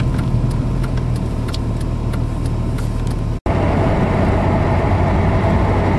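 Jeep cabin noise while driving on a snowy road: a steady engine and tyre drone, with faint quick ticks in the first half. After a sudden break about three and a half seconds in, the drone is louder, with a steady hum on top.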